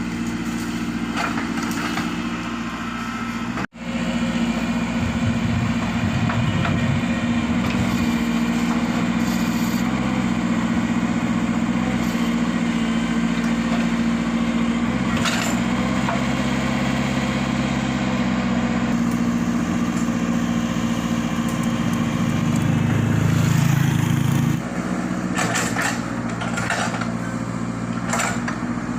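Sumitomo 110 excavator's diesel engine running steadily while pushing rubber trees, working louder and heavier for a couple of seconds near the end. A few sharp cracks come late on.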